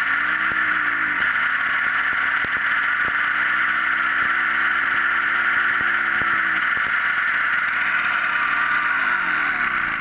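Echo backpack leaf blower's two-stroke engine running with the steady rush of its fan, the engine speed wavering up and down. Near the end the engine speed drops.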